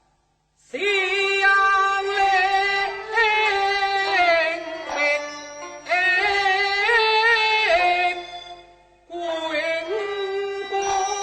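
Teochew opera music: a high melodic line in long held notes with a wavering vibrato. It starts after a moment of silence about a second in, breaks off briefly near the end and resumes.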